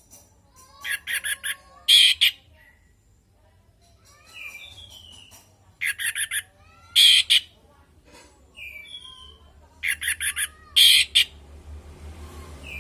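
Orange-headed thrush (anis merah) calling: a short slurred whistle, then a quick run of four harsh notes and a louder harsh burst. The phrase comes three times, about every four to five seconds.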